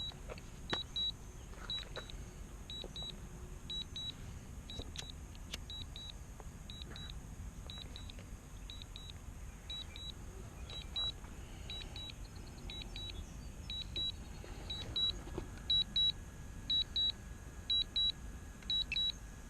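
Drone remote controller sounding short high double beeps, repeating evenly about once a second, the alert it gives while the drone flies itself home on return-to-home.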